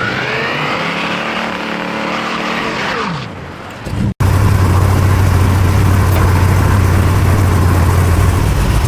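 Car engine revving, its pitch rising and then falling away. After a sudden cut about four seconds in, the engine runs steady and loud with a low drone.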